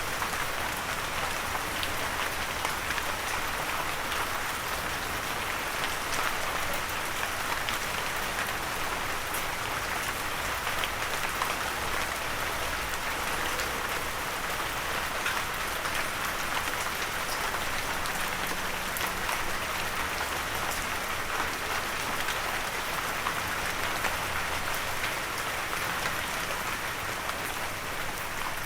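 Steady gentle rain falling, with many fine drop patters and no thunder.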